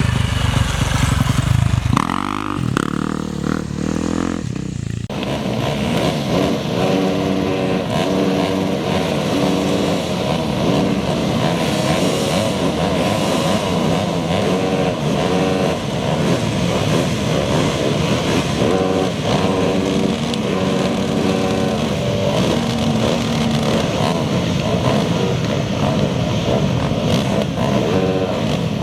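Off-road racing motorcycle engines running loudly and steadily, with an abrupt change in the sound about five seconds in.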